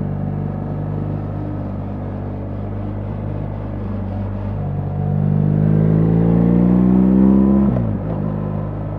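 BMW R 1300 GS boxer-twin engine running steadily under way, then accelerating from about halfway with rising pitch and growing louder. Near the end the revs drop sharply and it settles back to a steady, lower note.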